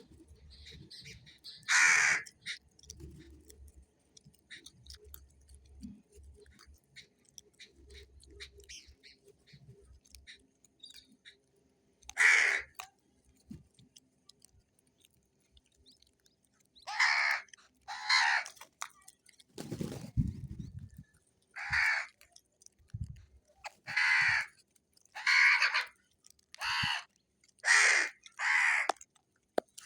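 Crow cawing: one caw about two seconds in, another about twelve seconds in, then a run of about ten harsh caws in quick succession through the last third. A dull thump is heard about twenty seconds in.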